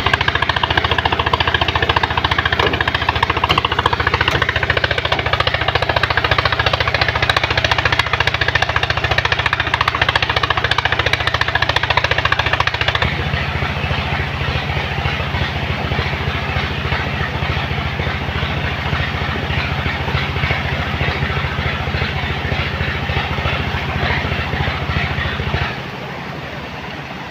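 Truck engine running loudly with a fast, even low pulse; it grows quieter about halfway through and again shortly before the end.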